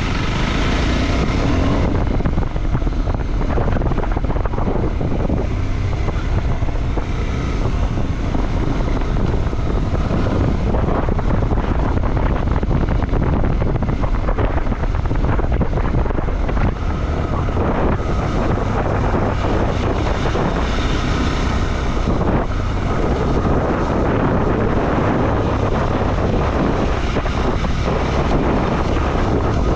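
Motorcycle being ridden, its engine running steadily under heavy wind noise on the microphone.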